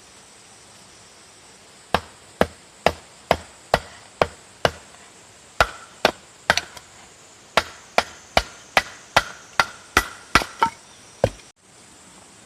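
Wood being chopped with a hatchet: about twenty sharp strikes at roughly two a second, starting about two seconds in, with a couple of short pauses. A faint steady insect drone runs underneath.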